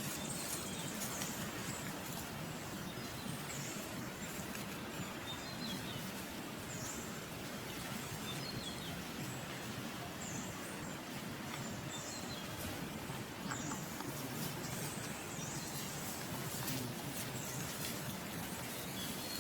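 Steady outdoor background noise with short, high-pitched, falling chirps from birds, repeating every second or two.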